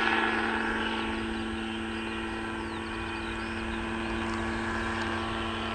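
Mosquito ultralight helicopter running: a steady engine-and-rotor drone, a little louder at the very start.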